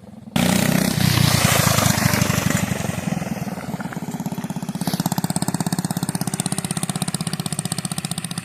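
Mini bike's small engine, fitted with a PZ19 round-slide carburetor, starts up loud about half a second in, then settles near five seconds in to an even, rapid pulsing idle.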